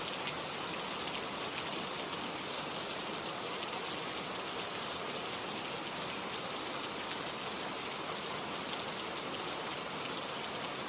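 Gentle rain shower falling steadily, an even hiss of rain with faint scattered drops pattering on surfaces.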